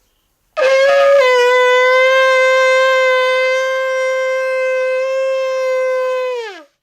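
A shofar sounded in one long blast: a rough attack that flicks briefly up to a higher note, then a steady held tone for about five seconds that sags in pitch as the breath runs out and the note ends.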